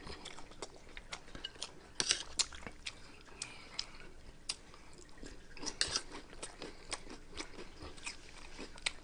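Close-up chewing and crunching of Flaming Hot Cheetos nachos: irregular crisp crunches and wet mouth clicks, loudest around two seconds in and again around six seconds in.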